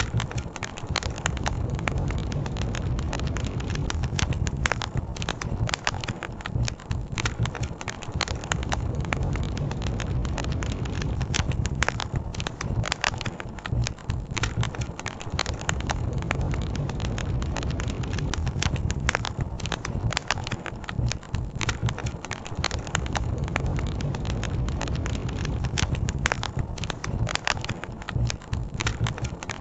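Campfire crackling, with frequent sharp snaps and pops from the burning wood over a steady low rumble.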